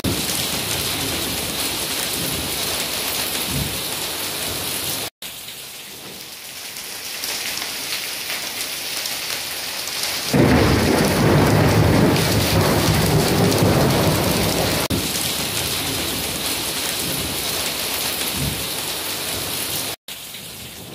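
Heavy rain pounding on a concrete patio and corrugated sheet roofs, with water pouring off the roof edges. It drops off after about five seconds and comes back louder, with a deeper rumble, from about ten seconds in, and cuts out for an instant twice.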